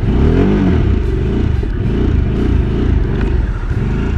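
Harley-Davidson Sportster S's liquid-cooled Revolution Max 1250T V-twin engine running with a steady pulsing note. The revs rise and fall once, briefly, about half a second in.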